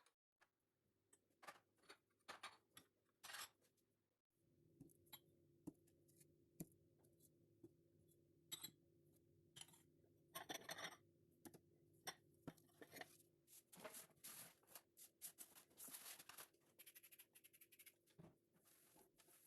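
Faint kitchen handling sounds: scattered light clicks, taps and scrapes, with a denser run of scraping and rustling in the second half, over a faint steady hum.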